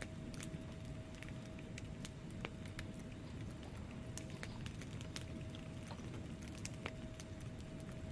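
Wood fire burning in a fireplace: a low steady rumble of flames with irregular sharp crackles and pops from the logs.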